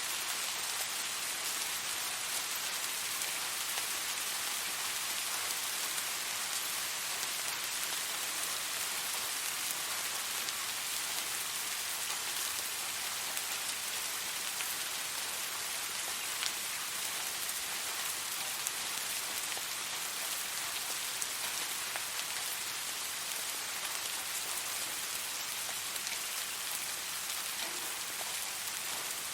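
Steady rain falling, an even hiss with scattered drop taps throughout.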